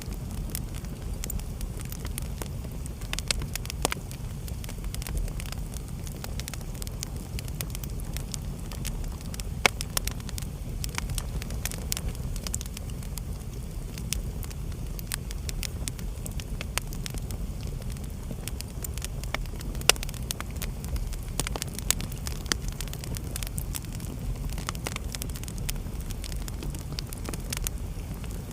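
Wood fire burning in a fireplace: a steady low rumble of flames with frequent sharp crackles and pops, the loudest pops about ten seconds in and about twenty seconds in.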